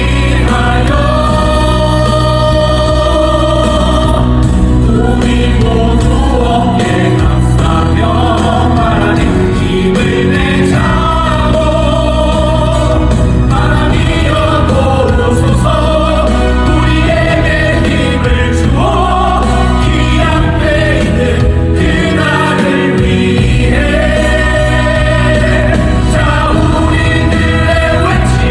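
A choir singing a slow song over an instrumental accompaniment with a steady, heavy bass; the voices hold long notes and glide between them.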